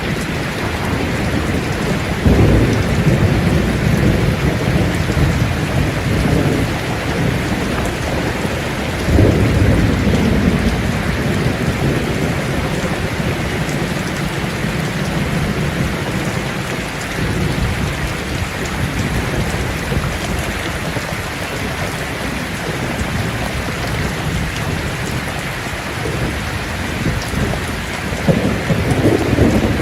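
Steady heavy rainfall, with low rumbles of thunder swelling about two seconds in, again around nine seconds in, and near the end.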